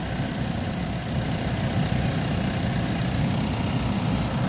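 2010 Chevrolet HHR's four-cylinder engine idling steadily while it warms up after a thermostat replacement.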